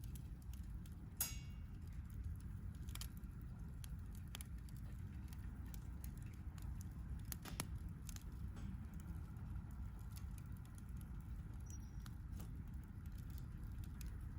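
Wood campfire crackling, with scattered sharp pops and a louder pop about a second in, over a steady low rumble.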